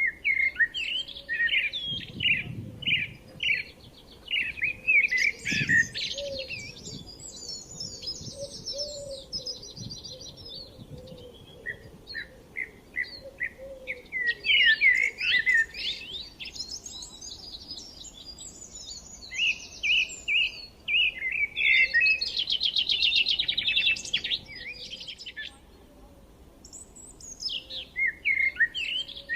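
A small songbird singing in long phrases of rapid chirps that run into buzzy trills, broken by short pauses, with a few soft low thumps early on.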